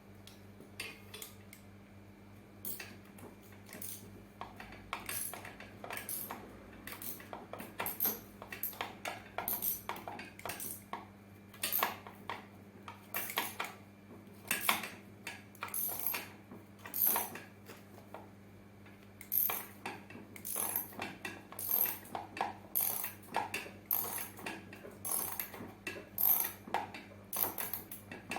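Rapid, irregular bursts of metallic clicking from a ratchet tool turning screws during a mobility-scooter repair, over a steady low hum.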